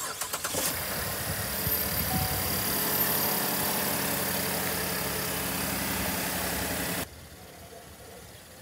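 Chevrolet Impala's direct-injection V6 cranking briefly on a jump pack clipped to the battery, catching and settling into a steady idle. The sound cuts off suddenly about seven seconds in.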